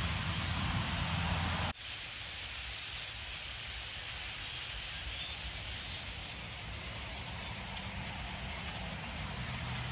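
Steady outdoor background noise with a low hum, like a distant engine or traffic, that cuts off abruptly about two seconds in. After that a quieter steady hiss continues.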